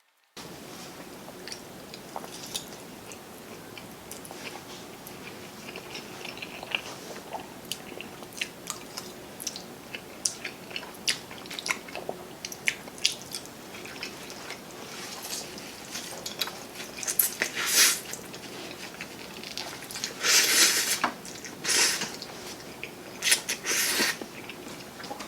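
Close-miked eating: chewing and biting with many small wet mouth clicks, and a few louder bursts of noise in the last several seconds.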